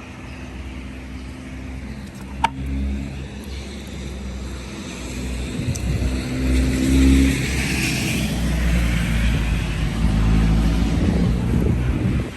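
Hail falling steadily, a hiss that swells in the middle, over a steady low rumble. A single sharp crack about two and a half seconds in.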